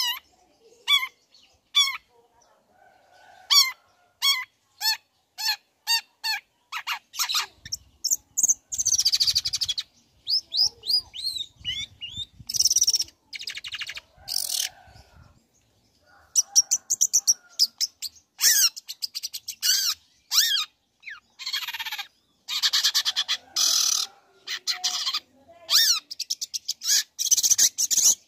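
Long-tailed shrike (cendet) singing: short repeated whistled notes, about one a second at first and then quickening, broken by harsh rasping bursts and fast chattering phrases.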